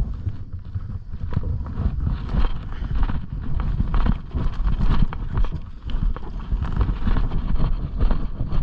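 Footsteps crunching and rustling through leaf litter and brush, irregular and hurried, with heavy thumping on a body-worn microphone.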